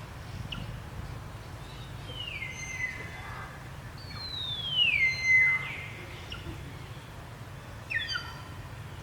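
High, whistle-like animal calls, three of them, each sliding down in pitch. The loudest is a long falling squeal about halfway through, and a short falling call comes near the end. Under them is a steady low background rumble.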